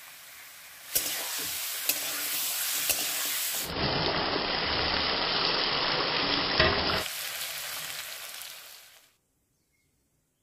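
Marinated chicken pieces sizzling and frying in a kadhai as a spatula stirs them. There are a few sharp clicks along the way, and the sizzle fades out about nine seconds in.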